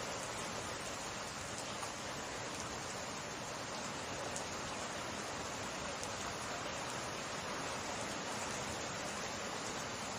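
Summer rain falling steadily: an even hiss with a few faint ticks of single drops.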